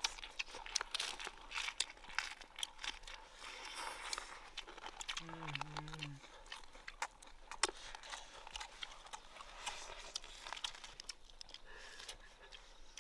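Close-up eating sounds: a person biting and chewing sweet and sour pork ribs, with many small crunches and clicks. A short hummed vocal sound comes about five seconds in.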